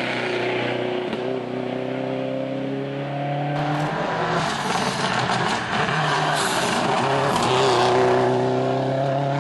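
Rally car engine under hard acceleration, its pitch climbing, dropping at a gear change and climbing again.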